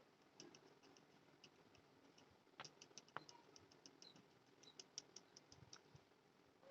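Faint, irregular light clicks and ticks over near silence, with two sharper clicks about two and a half and three seconds in.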